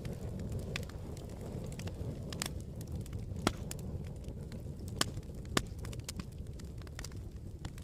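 Campfire burning: wood crackling with irregular sharp pops over a low steady rumble. The loudest pops come about three and a half seconds in and twice around five seconds in.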